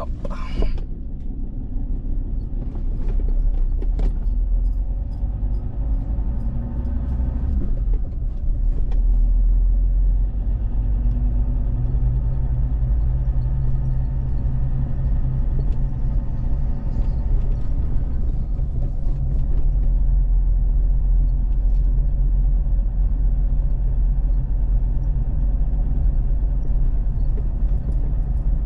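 Steady engine and road rumble of a car being driven, with a few brief knocks in the first ten seconds.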